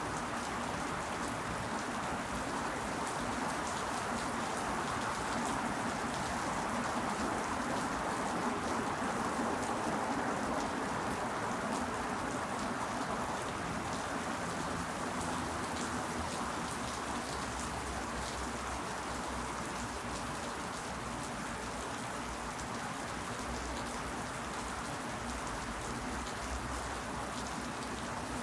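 Steady rain falling: a dense, even hiss with individual drops ticking through it, swelling slightly a few seconds in.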